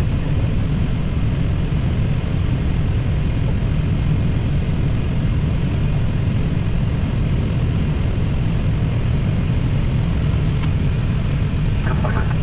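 Airbus A320 engines at idle during taxi, heard inside the cockpit as a steady low rumble with an even hiss above it.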